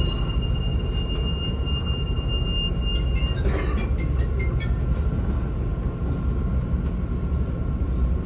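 Cabin noise of a MAZ-216 city bus on the move: a steady low rumble, with a thin high whine that stops about three seconds in, followed by a short burst of hiss or rattle.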